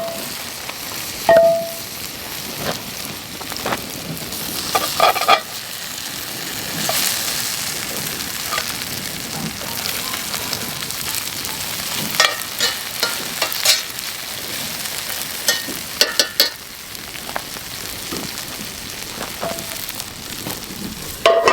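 Wood campfire burning down, a steady hiss with scattered crackles and sharp pops.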